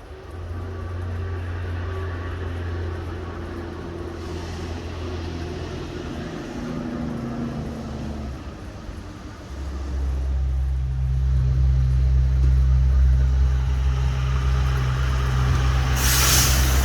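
Laden cattle truck's diesel engine running on a hill, growing louder and deeper about ten seconds in, with a short loud hiss near the end.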